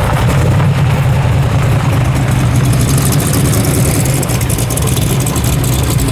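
A car engine running steadily close by, with a deep, even rumble.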